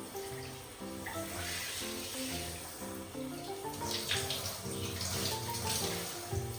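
Background music with a melody of short notes, over running water from a cat's bath that swells several times.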